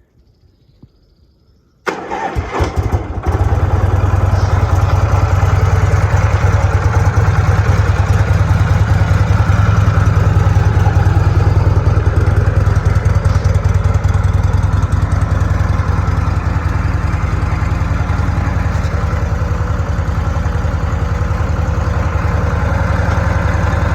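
1981 Harley-Davidson FLH's Shovelhead V-twin on a cold start: turned over briefly about two seconds in, catching and then idling steadily.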